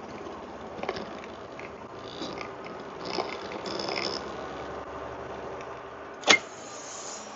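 A vehicle engine idling steadily, with scattered small clicks and rattles and one sharp click about six seconds in.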